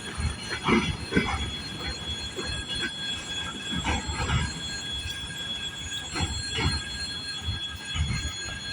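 Freight train wagons rolling past, their wheels knocking in pairs over rail joints every couple of seconds, with a steady high squeal from the wheels.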